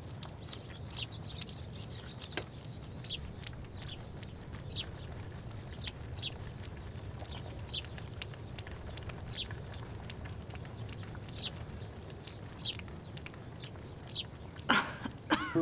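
Small birds chirping, one short falling chirp every second or so, over a low steady background hum; a brief louder sound comes near the end.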